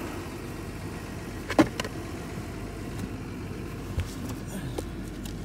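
Toyota 3FE inline-six of a 1991 FJ80 Land Cruiser idling steadily. A loud sharp double click about one and a half seconds in and a smaller click near four seconds come from hands working at the kick-panel wiring by the circuit opening relay.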